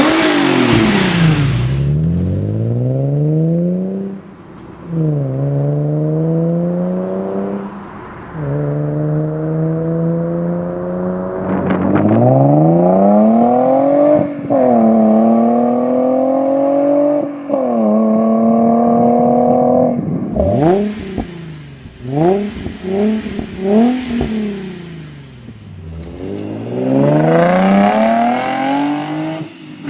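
Infiniti G35's 3.5-litre V6 heard through its exhaust while accelerating hard through the gears. The pitch climbs steadily and then drops sharply at each upshift, about six pulls in all. Past the middle come several quick, short revs up and back down, and then one more long climb near the end.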